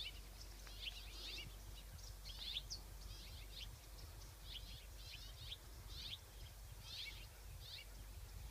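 Small birds chirping: quick high chirps and short trills, a few each second, over a faint low rumble.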